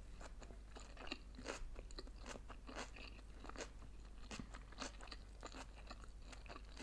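Faint chewing of sushi rolls: a string of small crunches, about two a second.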